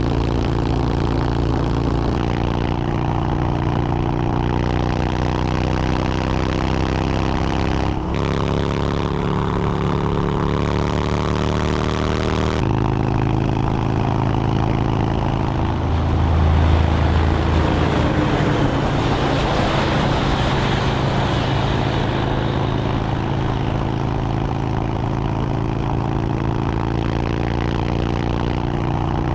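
Motorcycle engine running steadily under way, with wind rush; the engine note changes pitch twice in the first half, and a brief louder low swell comes in about two thirds of the way through.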